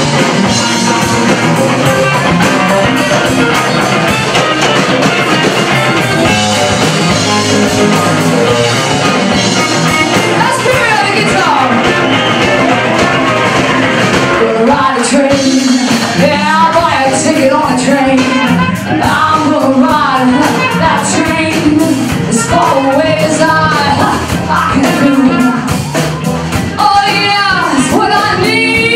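Live blues band playing a rock-style number, with a lead melody that bends and wavers in pitch over the second half.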